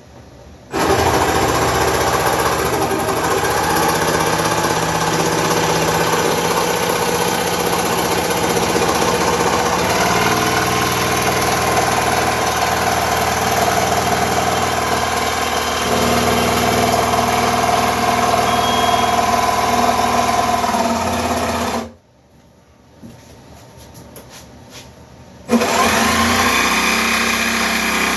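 Milwaukee M18 FUEL cordless jigsaw cutting through a wooden board, taken slowly to limit tear-out. It runs steadily for about twenty seconds, stops for a few seconds, then starts again and cuts on.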